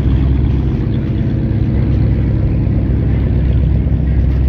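Deep, steady rumble of vehicle engines running at low revs, with no change in level.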